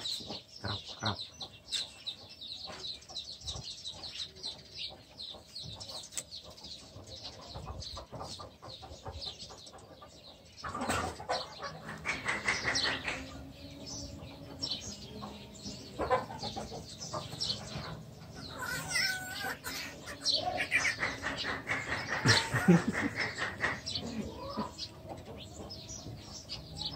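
Birds chirping and calling, a busy high chatter for the first several seconds, then louder, lower calls coming and going.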